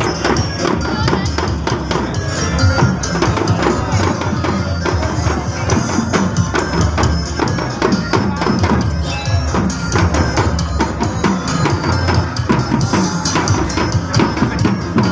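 Loud percussive music, with many sharp wooden clacks from teklek, Javanese wooden clog sandals, striking the ground together in rhythm.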